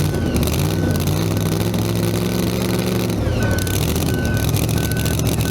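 Big engine running loudly at low revs; its pitch holds higher for a couple of seconds and drops back about three seconds in. A vehicle's reversing beeper sounds over it, a short beep about every 0.7 seconds, pausing briefly in the middle.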